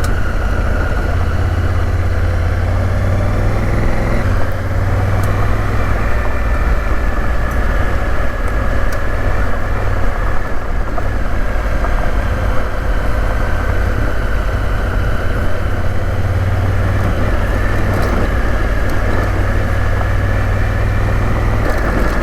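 Honda Africa Twin's parallel-twin engine running steadily under way, with a low steady hum and little change in pace, a slight shift about four seconds in.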